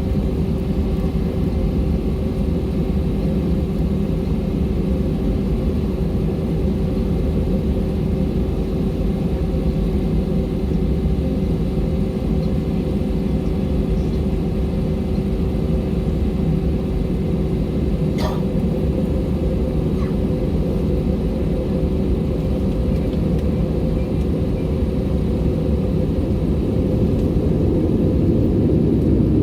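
Airbus A320-232's IAE V2500 jet engines running, heard from inside the passenger cabin as a steady low rumble with a constant hum. The sound grows slightly louder near the end.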